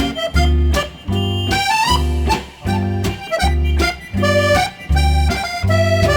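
Accordion instrumental: a reedy melody played over a steady bass-and-chord accompaniment on each beat.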